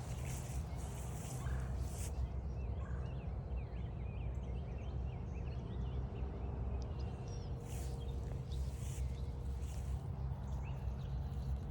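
Footsteps crunching along a forest trail over a steady low rumble on the microphone, with small songbirds chirping in quick, short notes in the middle stretch.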